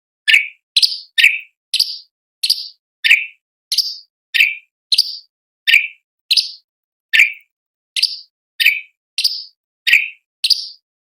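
Cucak cungkok leafbird giving a steady series of short, sharp call notes, about one and a half a second, some pitched higher and some lower, with dead silence between them as in an edited training recording.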